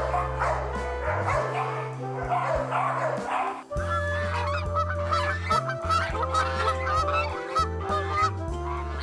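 Domestic waterfowl honking and calling over background music, with a rapid string of short calls from about four seconds in.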